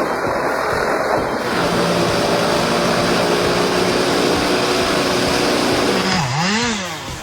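An engine running steadily, its pitch dipping and then rising again about six seconds in.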